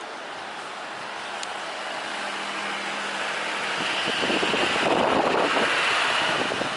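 Jet airliner on landing approach, its engine noise swelling as it comes over, loudest about two thirds of the way in, with wind buffeting the microphone.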